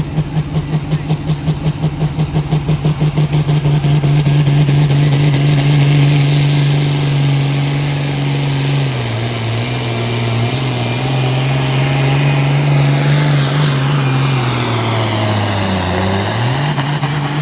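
Competition pulling vehicle's engine running hard under load during a pull: a fast pulsing beat at first, then a steady high-revving note. The pitch sags about halfway through, dips lower near the end, then climbs again before cutting off sharply.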